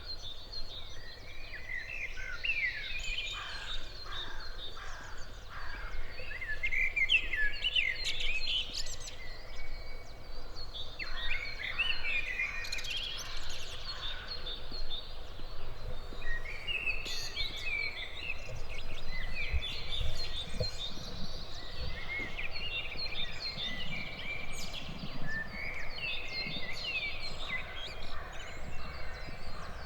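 Several songbirds singing in a dawn chorus of quick, repeated chirping phrases, over a low steady background rumble.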